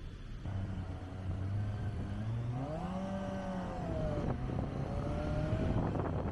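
Kawasaki Ninja ZX-25R's 250 cc inline-four engine under way, its note rising as it revs up about two and a half seconds in, then easing back down about a second later. Wind noise builds near the end.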